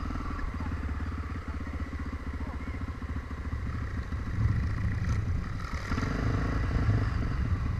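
Trail motorcycle engine running at idle with steady firing pulses, getting louder about four seconds in.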